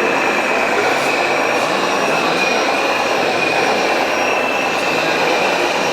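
Radio-controlled scale construction machines running: a steady high-pitched mechanical whine over a continuous dense clatter.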